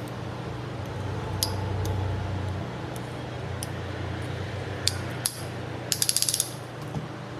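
Hand tools working on an engine: scattered sharp metallic clicks, then a quick run of about eight ratchet-like clicks about six seconds in, over a steady low hum.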